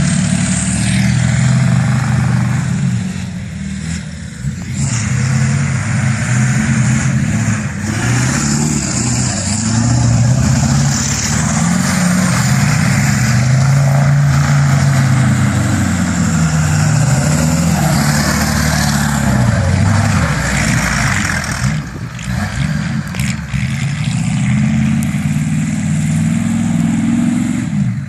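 Pickup truck engine revving hard and easing off again and again while the truck is driven, its pitch rising and falling many times over a steady rush of noise. The sound drops off sharply right at the end.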